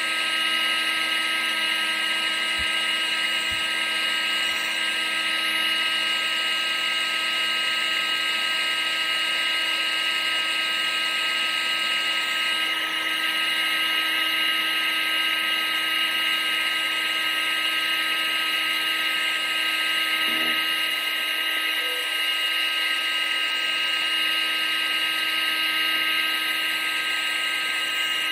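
Vacuum cleaner motor running steadily: a constant high-pitched whine over an even rushing hiss, with no change in speed.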